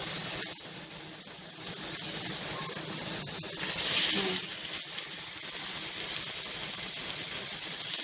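Marinated chicken sizzling skin side down on a hot non-stick grill pan: a steady hiss that flares louder about four seconds in. A sharp knock about half a second in.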